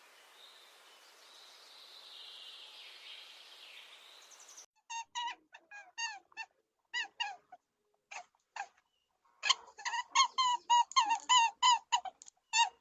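Faint background noise, then a sudden change to a bird giving short, falling calls: scattered at first, then a quick run of them in the second half.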